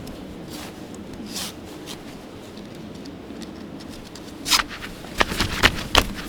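Handling noises over a steady low background: a brief scraping swish about four and a half seconds in, then a quick run of sharp clicks and rustles near the end.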